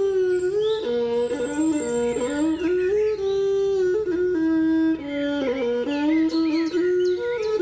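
Instrumental music: a single reedy wind instrument plays a melody that leaps between a low and a higher note, with quick ornamental turns.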